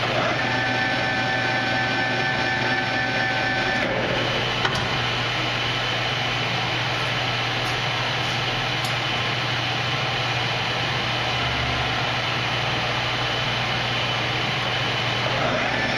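Victor engine lathe running under power, its spindle turning during a speed test: a steady motor hum with gear whine. The whine changes about four seconds in and again near the end.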